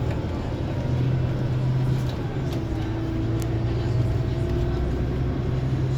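Scania coach engine running steadily under way: a low drone with a fainter whine above it that drops slightly in pitch about two seconds in. A couple of light clicks come near the middle.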